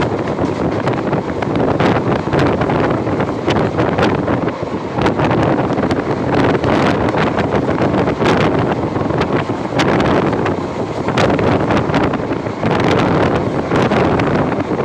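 Wind rushing hard over the microphone on a moving express train, over the train's steady running noise, with many short knocks and clicks.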